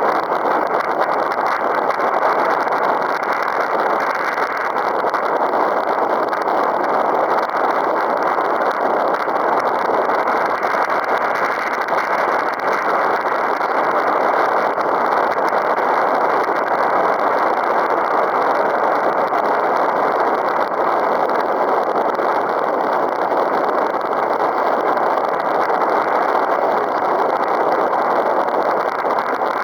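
Strong wind, about 15 m/s, blowing across the microphone: a steady, loud rushing noise.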